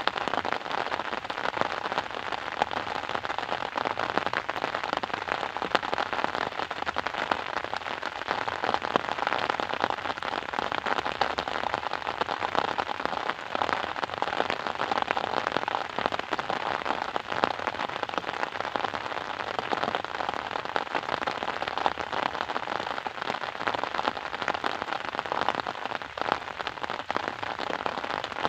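Steady rain falling, a dense even patter of many small drops with no let-up.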